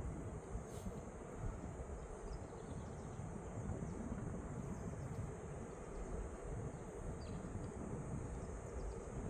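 Steady high chorus of crickets over a continuous low rush of flowing mountain-river water, with a few faint ticks.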